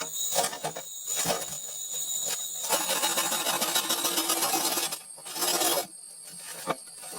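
Hand-tool work on wood: rough, uneven scraping strokes, with a louder burst about five seconds in and a sharp knock near the end.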